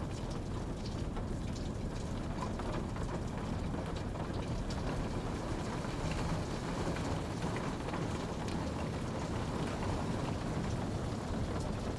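Steady rain falling, a continuous even rush with scattered individual drops ticking higher up.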